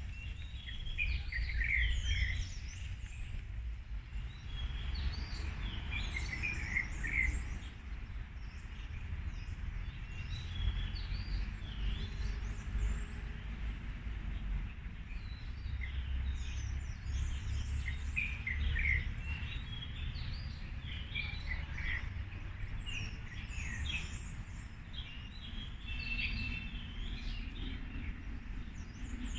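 Birds singing in short bursts of quick chirping notes, recurring every few seconds, over a steady low rumble.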